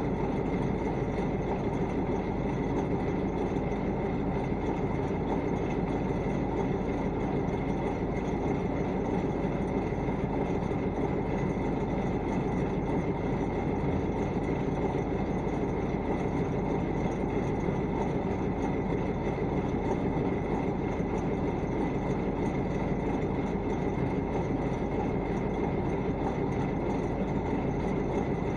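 KamAZ truck's diesel engine running at a steady speed, an even, unbroken rumble with no revving.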